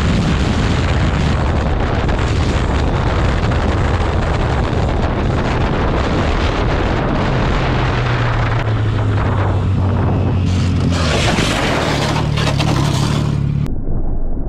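Motorcycle riding at speed: loud wind rush over the microphone with the engine's drone beneath, its pitch climbing about two thirds of the way through. Near the end the hiss cuts off abruptly, leaving a duller engine sound.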